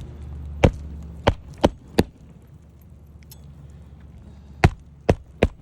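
Roofing hammer driving nails into an asphalt shingle on a roof deck: seven sharp blows, a quick run of four, a pause, then three more near the end.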